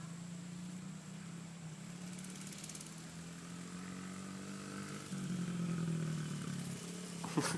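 Small mini bike engine running steadily, louder from about five seconds in as it is given more throttle. A brief sharp sound, falling in pitch, near the end.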